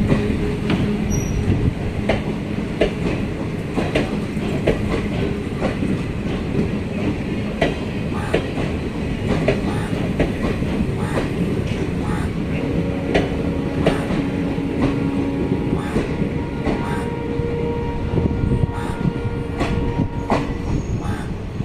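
Passenger train running on the rails: a steady rumble with many sharp clicks as the wheels cross rail joints, and a few held squealing tones in the second half.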